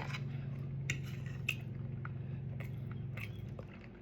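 A few light clicks of an eating utensil against a dish, over a steady low hum that dies away near the end.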